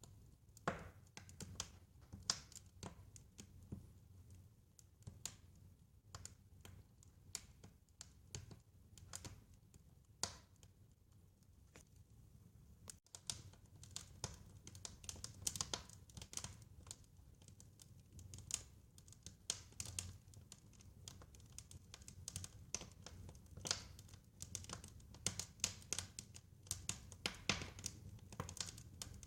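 Wood fire crackling in a fireplace: irregular sharp pops and snaps over a soft low rumble of the flames, the pops coming thicker about halfway through.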